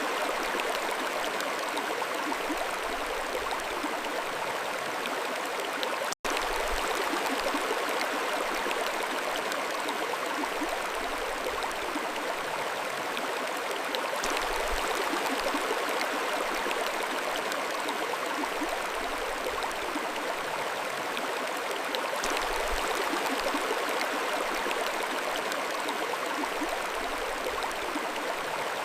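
Mountain stream flowing, a steady rush of water, with a split-second dropout to silence about six seconds in.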